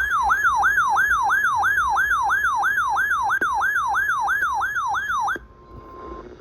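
Electronic siren tone in a fast yelp: the pitch falls and snaps back up about three times a second, then cuts off suddenly near the end. A brief, faint steady tone follows.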